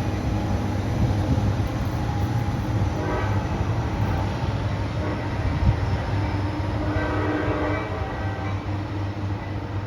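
Train running with a steady low rumble, and short higher tones sounding about three seconds in and again around seven seconds.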